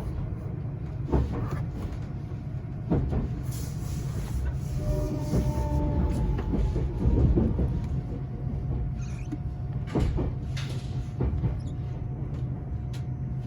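Running noise heard inside the cabin of the limited express Fujikawa, an electric train: a steady low rumble with sharp clicks from the wheels over rail joints, and a few seconds of steady humming tones around the middle.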